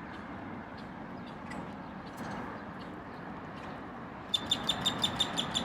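Steady outdoor background noise with a low traffic-like rumble. About four seconds in it is joined by a rapid run of short, high, evenly spaced chirps, about seven or eight a second, lasting to the end.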